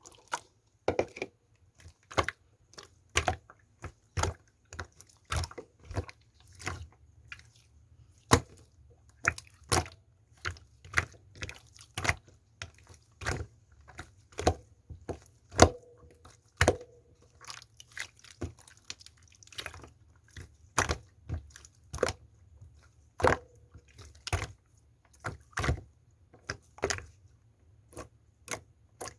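Slime being squeezed and pressed by hand, making repeated sharp clicking and popping sounds, about one or two a second, some with a short squelching tone.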